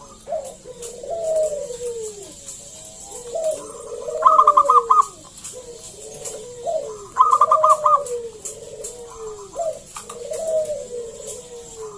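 Zebra doves (perkutut) cooing in repeated rolling, falling phrases, overlapping one another. Twice, a quick run of higher, sharper notes cuts in and is the loudest part.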